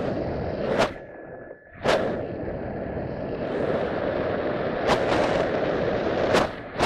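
Wind rushing over the microphone in flight, with sharp buffeting pops a few times, about a second in, near two seconds, near five and twice near the end.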